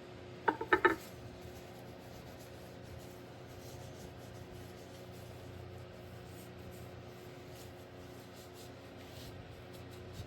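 Three quick sharp knocks close together about half a second in, then faint scratchy rubbing strokes over a steady low hum.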